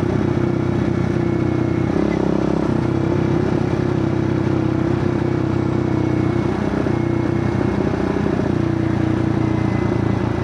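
Kawasaki KLX110 pit bike's small single-cylinder four-stroke engine running at a steady cruise, with small rises and dips in pitch.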